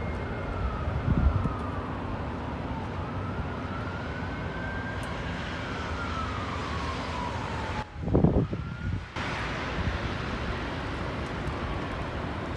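Siren wailing, a single tone slowly rising and falling every few seconds, heard faintly through steady wind noise on the microphone, with gusts buffeting the microphone about a second in and about eight seconds in.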